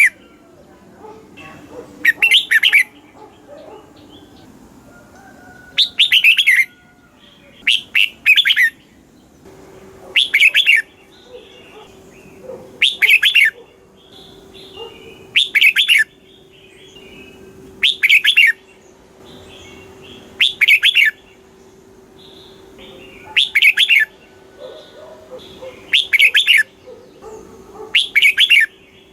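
Red-whiskered bulbul singing: short, loud song phrases of quick notes, repeated about every two and a half seconds. A faint steady low hum sits underneath from about a third of the way in.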